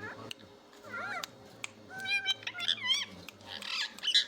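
Pet parrot making a string of short, meow-like calls, each rising and falling in pitch, several in a row.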